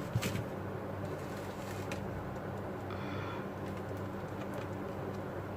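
Steady low hum, with a few light clicks just after the start and a faint brief high chirp about three seconds in.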